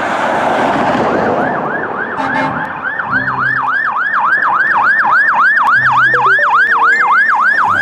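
Electronic siren of a toy fire service car, yelping with a rapid up-and-down wail of about three cycles a second, after a second or two of loud hissing noise.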